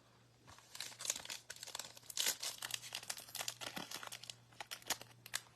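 Foil wrapper of a baseball card pack being torn and crinkled open by hand, a busy run of irregular crackling that starts about half a second in, over a faint steady hum.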